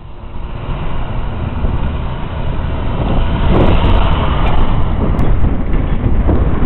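Loud, rumbling wind buffeting the microphone of a camera held by a cyclist while riding, rising in the first second and growing louder about halfway through.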